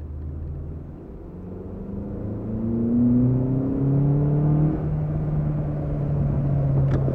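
Car engine accelerating, its pitch rising for about three seconds, then dropping about five seconds in and running steadily at a lower pitch.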